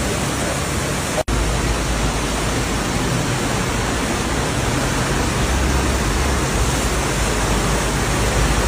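Steady rush of water in heavy flooding, cutting out for an instant a little over a second in.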